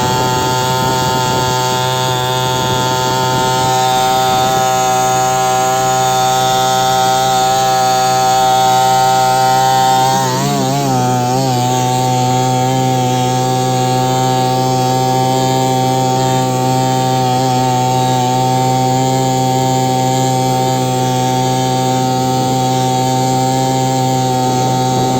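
Carver 3.8 outboard motor running steadily at speed. About ten seconds in, its note wavers briefly, then it settles back to a steady, slightly quieter run.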